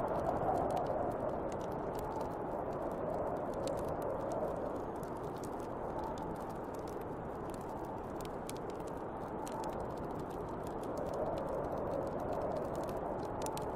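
Snowstorm wind blowing steadily and whistling, swelling in gusts near the start, around four seconds in and again near the end, over a wood fire crackling with many small sharp pops.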